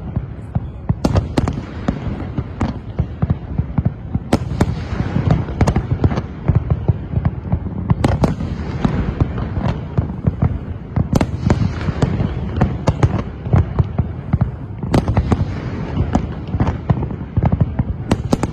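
Fireworks display: a dense, continuous rumble of aerial shells bursting, with many sharp cracks and a few much louder bangs standing out.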